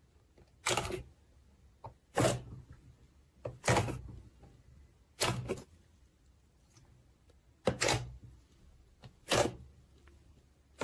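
Slime being squeezed and pressed by hand, giving short wet squelches about every one and a half seconds, six in all.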